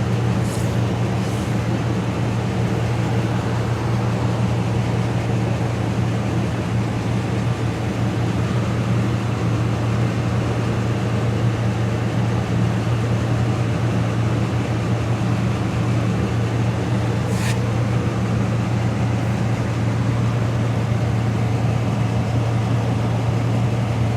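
2010 Nissan Titan's 5.6-litre V8 idling steadily through its exhaust, a deep even drone that sounds pretty mean. A short click about two-thirds of the way through.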